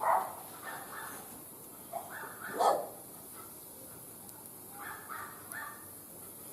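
A dog barking in short bursts, several times over, the loudest bark about two and a half seconds in.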